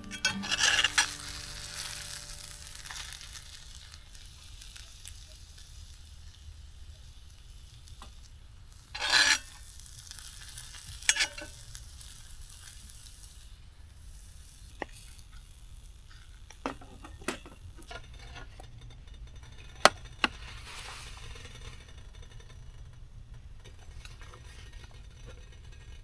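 Food frying and sizzling in a pan, with a few brief scrapes and several sharp clinks of a utensil against the pan.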